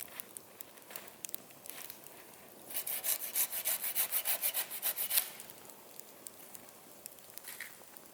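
Fast rhythmic rubbing or scraping, about seven short strokes a second for roughly two and a half seconds, starting a little under three seconds in; scattered faint ticks around it.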